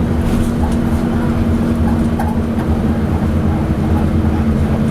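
Leyland Atlantean double-decker bus under way: its diesel engine drones steadily with a held tone, and the body gives a few light clanks.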